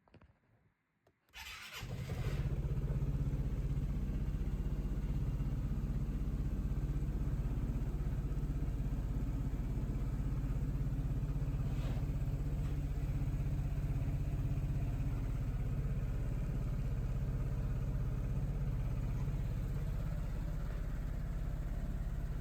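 Piaggio Vespa GTS 300 scooter's single-cylinder four-stroke engine started about a second in, catching at once and then idling steadily.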